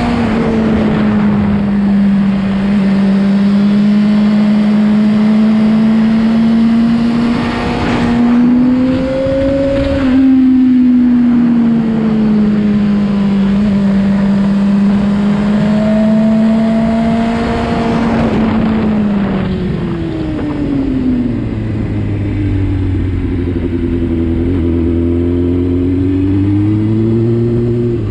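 Motorcycle engine running while riding, its pitch rising and falling with the throttle and dropping lower in the last third, over a steady rush of wind.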